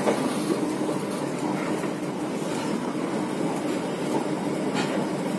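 Steady rumble of an INKA-built passenger train coach running on the rails, heard from inside the coach near its end door.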